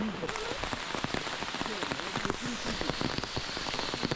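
Monsoon rain falling on forest leaves: a steady wash of rain with many single drops striking close by.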